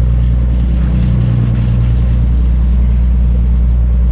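Boat engine running steadily, a constant low drone, with some wind on the microphone.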